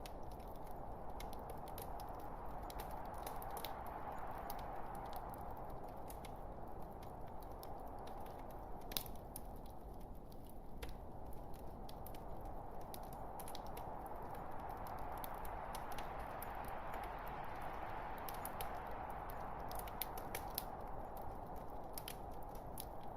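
Wood fire in a fireplace crackling: many small sharp pops and snaps over a steady rushing hiss that fades a little partway through and swells again, with a louder pop about nine seconds in.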